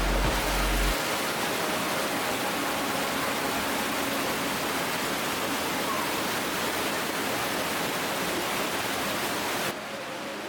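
Steady rush of water cascading down inside a limestone cave. The rush drops suddenly and sharply in level near the end.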